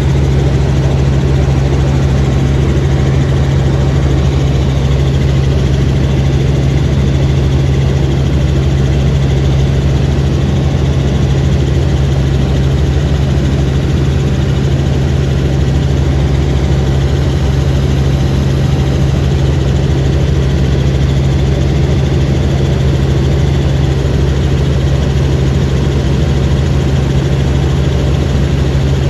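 Helicopter in flight, heard from on board: engine and rotor make a loud, steady drone with a strong deep hum, unchanging throughout.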